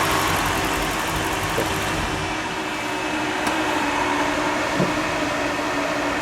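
Electric radiator cooling fans running steadily, a whooshing whir with a constant hum, keeping the engine at temperature.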